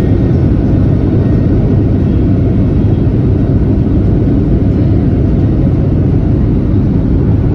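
Steady, loud rumble of cabin noise inside a Boeing 737-700: its CFM56 jet engines and airflow, heard from a passenger seat.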